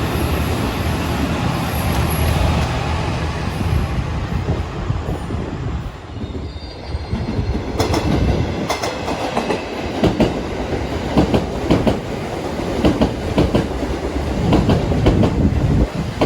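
A train running past, its wheels clacking over the rail joints. A dense rumble dips about six seconds in, then sharp, rapid wheel clacks follow from about eight seconds on.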